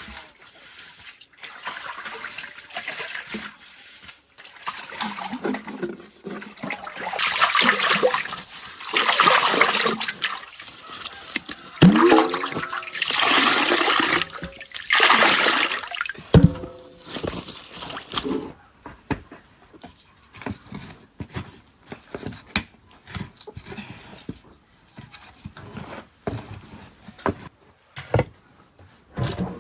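Water pouring and splashing in a few long pours, followed by scattered light knocks and clatter.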